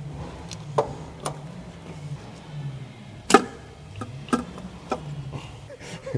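Hand work on an engine's fuel rail and injectors: scattered sharp metallic clicks and knocks of tools and parts, the loudest about three seconds in, over a low steady hum.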